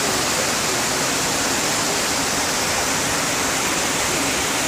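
Heavy monsoon downpour: a dense, steady hiss of rain falling over buildings and trees.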